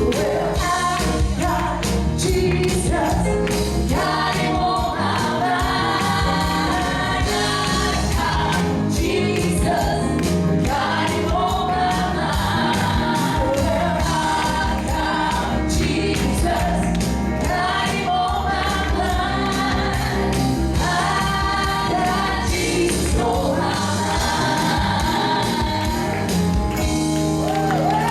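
Gospel worship song performed live: several voices singing over a band with a steady drum beat.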